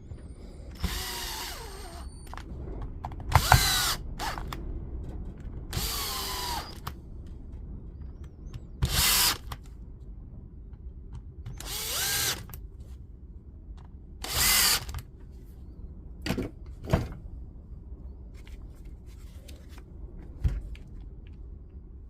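Cordless drill-driver running in about nine short bursts with pauses between, driving the housing screws of a DeWalt DCS355 oscillating multi-tool back in during reassembly.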